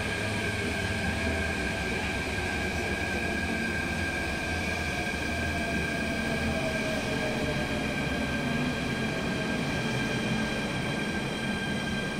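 MTR Tung Chung line A-train, an Adtranz-CAF electric multiple unit, running past: a steady low rumble with a steady high whine over it.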